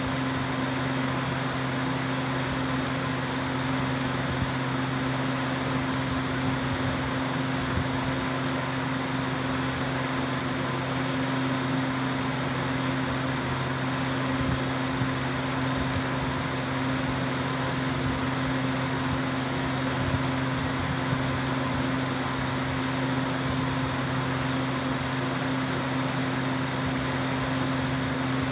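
Steady mechanical hum with an even hiss, unchanging throughout, of the kind a running electric fan or cooler makes.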